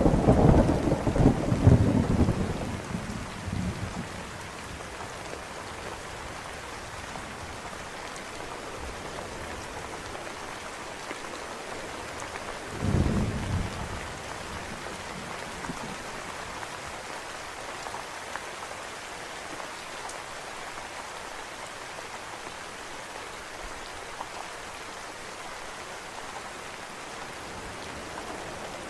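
Steady heavy rain with thunder. A loud thunderclap is rumbling at the start and fades over about four seconds, and a second, shorter roll of thunder comes about halfway through.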